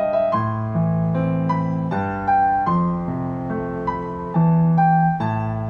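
Piano playing a slow melody over sustained bass chords, the melody decorated with turn ornaments: quick five-note turns that step a note above and below the main note and back.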